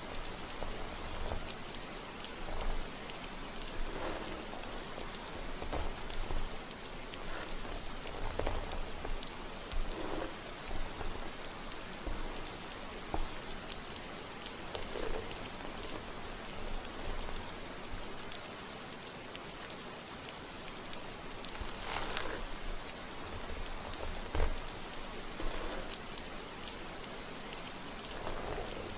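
Steady rain, with soft swishing every couple of seconds from hands moving through hair on a mannequin head. One swish about two-thirds of the way through is louder than the rest.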